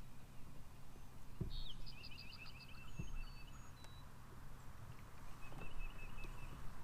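A wild bird calling: two short rapid trills of repeated high notes with a few thin whistles between them. Three soft low knocks come in the gaps.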